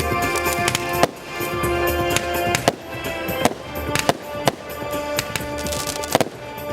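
Fireworks going off in a display: a string of sharp bangs at irregular intervals, the loudest about a second in, over loud music playing throughout.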